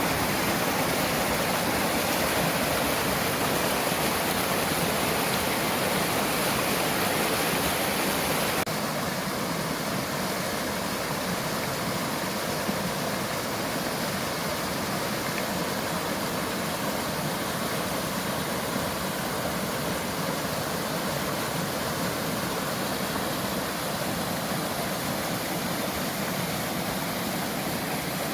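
Mountain stream water rushing steadily. About a third of the way in the sound shifts abruptly to a slightly quieter, thinner rush.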